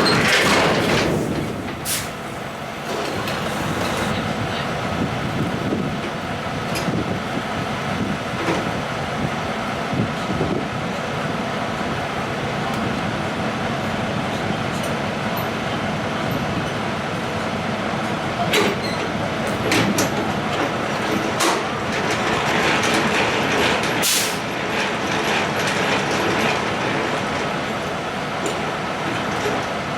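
Peterbilt semi truck's diesel engine running steadily while the tractor is coupled to a trailer, with scattered clanks and a louder hiss about three-quarters of the way through.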